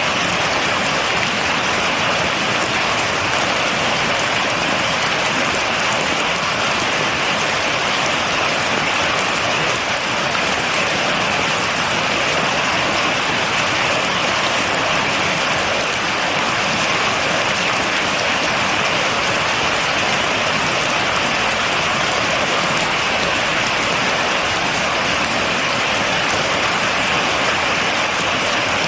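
Steady rain falling, an even hiss with the patter of individual drops and no thunder.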